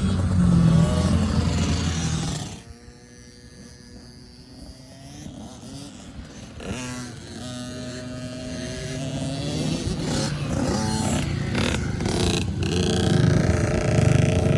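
Small four-stroke dirt bike engine, a kids' Honda CRF110, revving loud up close, then dropping away sharply about two and a half seconds in. It is heard faintly in the distance, rising and falling in pitch through the gears, then grows louder again towards the end as it comes back near.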